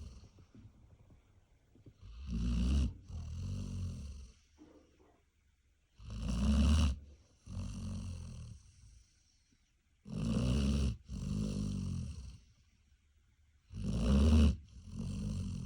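Large dog snoring: four slow snores about four seconds apart, each a loud rasp followed after a brief break by a softer, longer one.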